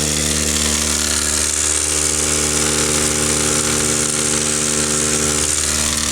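Electric non-air drywasher running steadily, its motor giving an even hum under a constant hiss as dry dirt shakes and trickles down through the machine.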